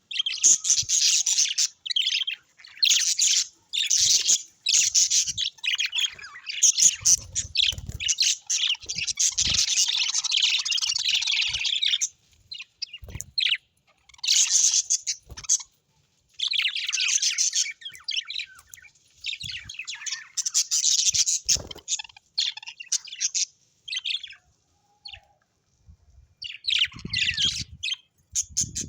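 Birds chirping and chattering rapidly in bursts of one to several seconds, broken by short silent gaps, with a few faint low thuds in between.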